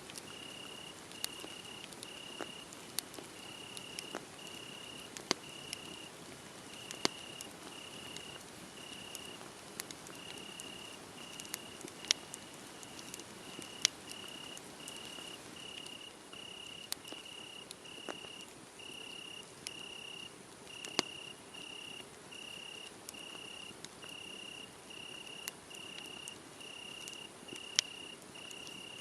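Cricket chirping steadily at about two chirps a second over a crackling wood fire, whose sharp pops and snaps come irregularly, a few of them loud.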